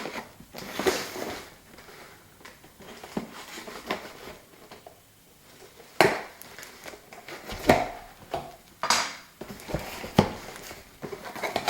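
A cardboard box being opened and its packaging handled: irregular rustles, scrapes and knocks, with a sharper knock about six seconds in.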